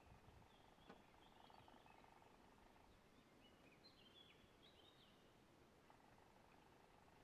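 Near silence with faint, distant bird calls: short chirps in two spells, and a single click about a second in.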